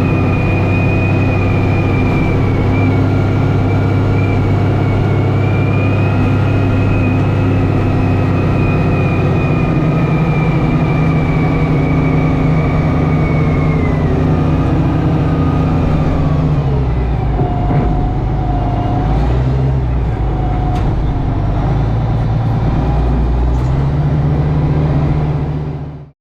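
Tractor engine running steadily under load with a high whine over it; about halfway through the whine slides down and fades, and the engine note then rises and falls unevenly before the sound cuts off abruptly near the end.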